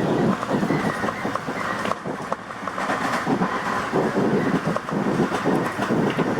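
Tobu Tojo Line electric commuter train running, heard on board, a steady noise with the wheels clicking over the track.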